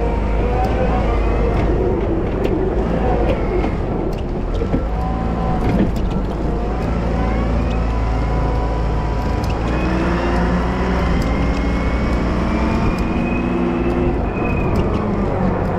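Volvo wheel loader engine running steadily under load while snow plowing, with a whine that rises and falls in pitch as it works and scattered light ticks.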